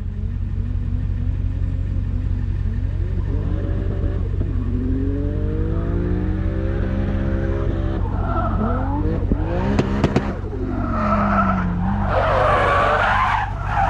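A drift car's engine revving, its pitch sweeping up and down, then tyres squealing in several loud bursts over the second half as the car slides.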